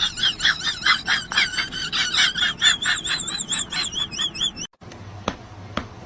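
A fast run of high-pitched bird-like chirps, about four or five a second, each wavering in pitch; it cuts off sharply near the end and gives way to a few sharp taps.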